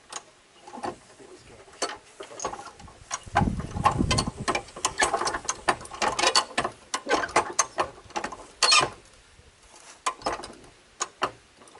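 A ratchet mechanism clicking over and over in irregular runs, busiest in the middle, with a heavier metal clunk about four seconds in. It is a lifting rig being tightened to raise a truck cab off its chassis.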